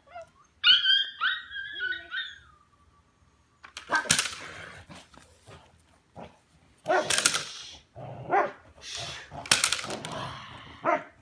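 Belgian Malinois whining and barking: a few high-pitched whines in the first two seconds, then a string of loud barks spread over the rest, the excited vocalising of a working dog during bite work.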